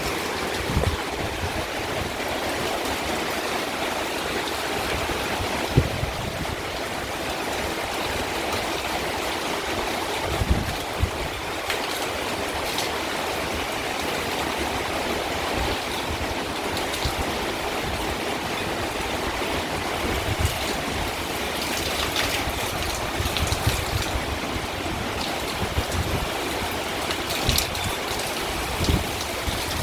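Heavy rain pouring steadily in a windstorm, with low gusty rumbles that come and go.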